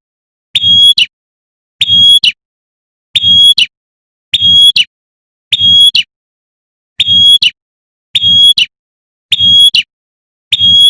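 Female prenjak (prinia) giving its sharp 'tembakan' call over and over, nine identical short calls evenly spaced about every 1.2 s, each a held high note ending in a sharp snap: a looped lure recording.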